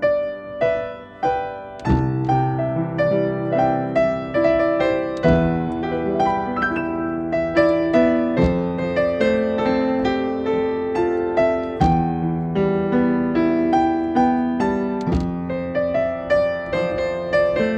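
Solo piano playing a slow, gentle piece, with arpeggiated chords over a low bass note struck every few seconds.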